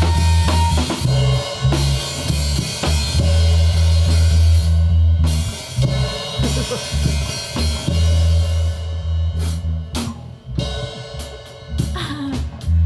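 Live rock band playing an instrumental passage on electric bass, guitar and drum kit. Near the end the bass drops out for a short run of separate drum hits, and then the full band comes back in.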